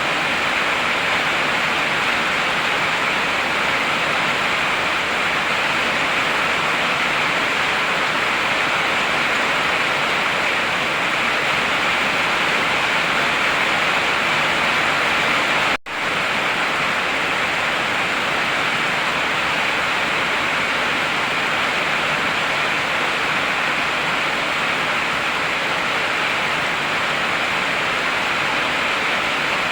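Heavy rain falling steadily as a dense, even hiss. It cuts out for an instant about halfway through.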